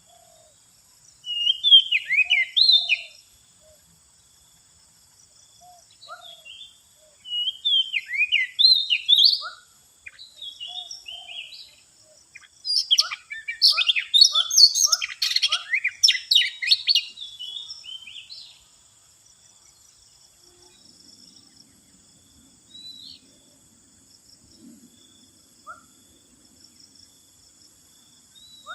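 Oriental magpie-robin (kacer) song: rapid bursts of varied whistles and chirps with short pauses between them. The song is densest and loudest about halfway through, then thins to a few scattered notes. A faint steady high hiss runs underneath.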